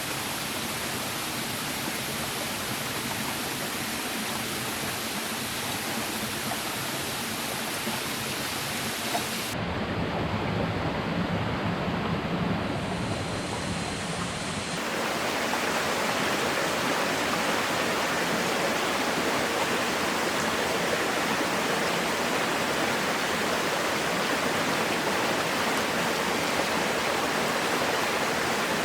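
Steady rushing of water, a dense even hiss. About a third of the way in it turns abruptly duller and deeper, and about halfway it turns abruptly louder and brighter.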